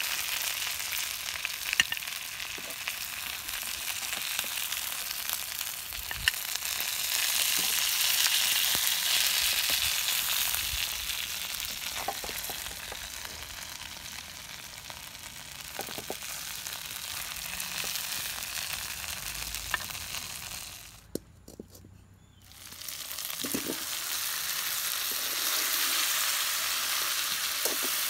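Chicken drumsticks frying in a pan, a steady sizzling hiss with a few scattered clicks. The sizzle drops out almost completely for about a second and a half some three quarters of the way through, then comes back.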